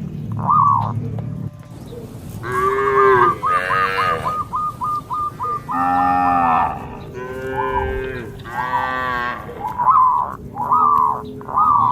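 Cattle mooing: several long, drawn-out moos one after another, with a quick run of short high-pitched notes repeating behind them.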